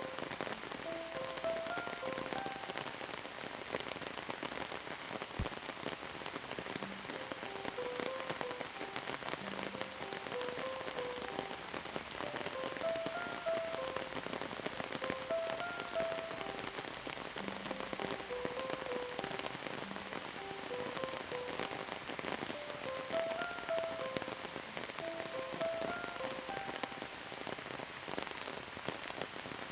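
Steady rain pattering, dense and even, with a soft melody of short held notes repeating over it.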